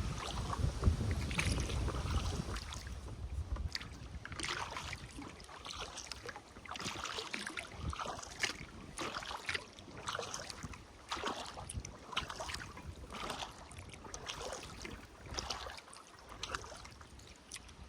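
Kayak paddle blades dipping and splashing in the river water in a loose, repeating rhythm, with wind rumbling on the microphone for the first few seconds.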